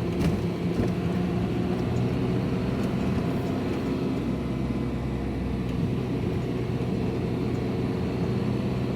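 Vehicle engine running steadily with road noise, heard from inside the cab while driving.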